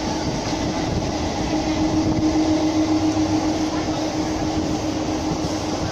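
Electric local train running at speed, heard from its open doorway: a steady roar of wheels on rails and rushing air, with a steady hum over it.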